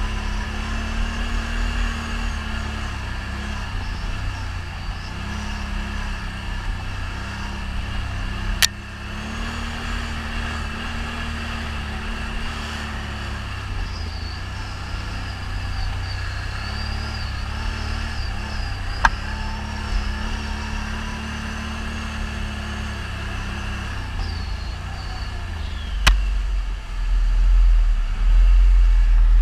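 ATV engine running under varying throttle while riding a trail, its note rising and falling, with a steady low rumble. Three sharp knocks come through along the way, and the rumble gets heavier near the end.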